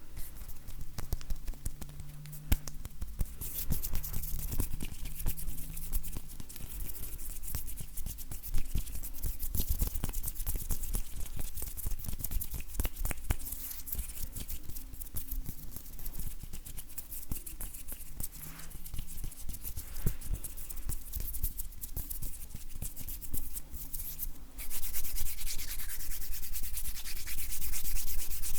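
Dry bare hands rubbing together close to the microphone, a rustling, crackling skin-on-skin friction. About 24 seconds in the rubbing becomes louder and steadier.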